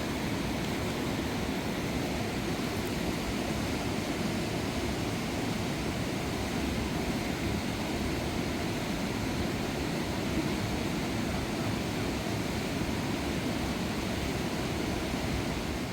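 Steady rush of a fast mountain river running over rocks.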